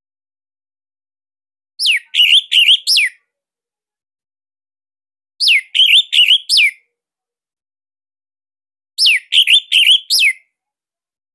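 Orange-headed thrush (anis merah) singing its 'sirtu' shot phrase three times, about every three and a half seconds. Each phrase is a quick falling whistle, three short sharp notes, then another falling note.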